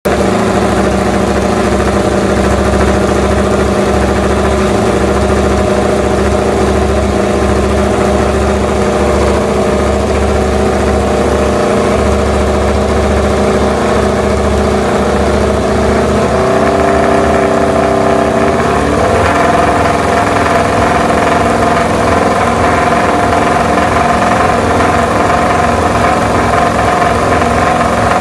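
Aprilia V4 motorcycle engine running through its exhaust, holding a steady idle, then stepping up to a higher held rev about 16 seconds in and higher again a few seconds later.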